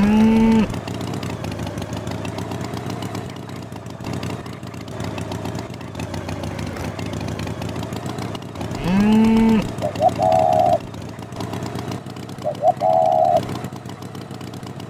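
A motor runs steadily, like a small engine, all the way through. Over it come two loud, low, pitched calls of about half a second each, one at the start and one about nine seconds in, then short higher wavering honks from about ten seconds on.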